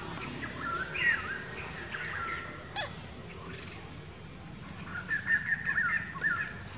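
Birds chirping and warbling in two spells of song, one about a second in and a busier one near the end, with a single quick downward-sweeping call just before the middle.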